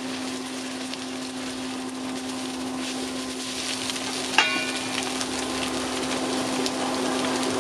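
Egg and garlic sizzling in a hot nonstick wok while a spatula stirs and scrambles the egg, over a steady low hum. A little over four seconds in comes one sharp clack with a brief ring.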